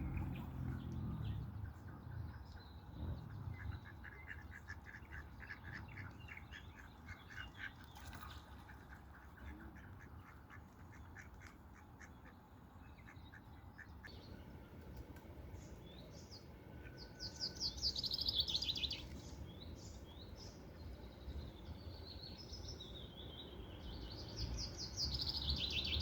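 Waterbirds calling on a river: ducks quacking, with a quick run of calls in the first few seconds. Loud, harsh, falling gull calls come about two-thirds of the way through and again at the end.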